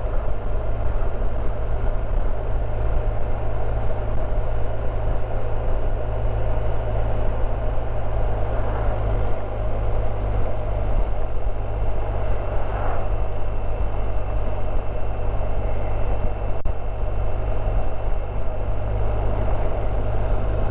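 Riding noise from a BMW R1250 RT motorcycle: a steady low rumble of wind on the helmet microphone, with the bike's boxer-twin engine running underneath.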